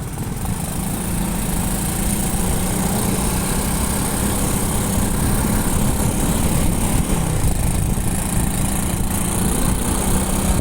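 Motorcycle engine running steadily while riding, with road and wind noise, getting slightly louder over the first couple of seconds.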